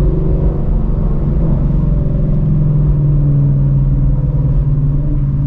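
2016 Shelby GT350's straight-piped 5.2-litre flat-plane-crank V8 running at a steady engine speed, heard from inside the cabin as a low, even exhaust note.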